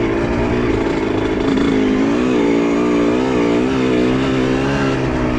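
Honda CR125R's single-cylinder two-stroke engine running while the bike is ridden, its pitch wavering up and down with the throttle.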